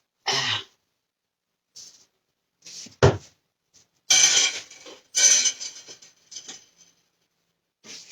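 Kitchen containers and utensils being handled: a short rustle at the start, a sharp knock about three seconds in, then two spells of clattering and rattling.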